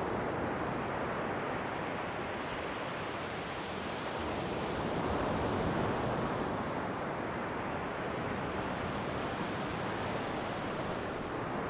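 Ocean waves breaking and washing on the shore, a steady surf hiss that swells about halfway through and then eases.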